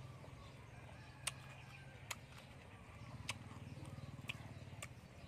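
Close chewing of deep-fried fish, with sharp crunchy mouth clicks and smacks coming every second or so. Under them runs a faint, steady low hum.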